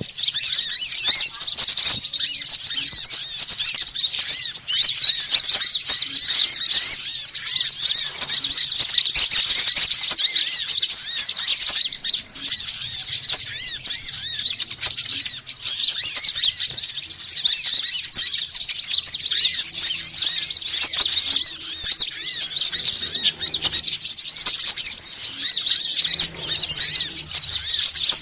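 A dense chorus of small birds chirping and twittering at high pitch, many calls overlapping without a break. It is a lure call played to draw small wild birds in to be caught.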